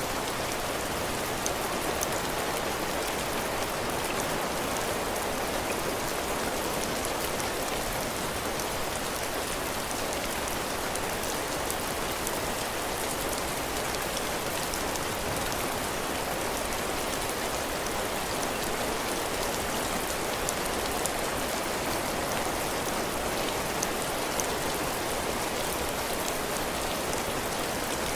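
Heavy rain falling on a roof and the ground: a steady hiss with scattered ticks of single drops.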